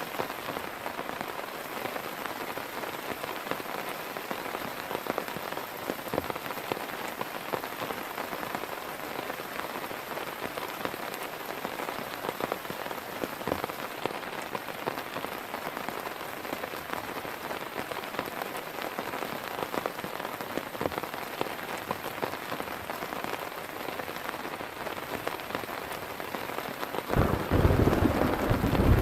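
Heavy rain falling steadily, with individual drops ticking sharply through it. About two seconds before the end, a low rumble of thunder starts suddenly and becomes the loudest sound.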